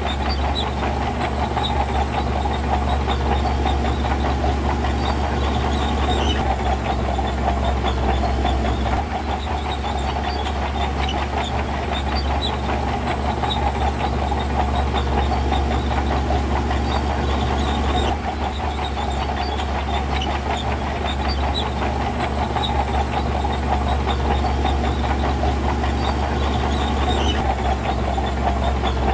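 Heavy diesel earthmoving machinery running steadily under load, with a dense metallic clatter throughout. The sound shifts slightly a few times.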